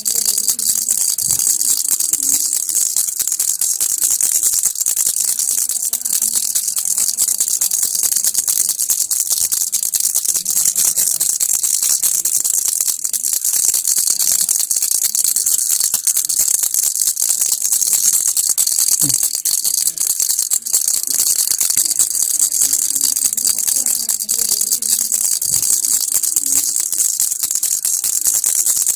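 Baby rattle being shaken continuously, a steady fast rattling with no pauses.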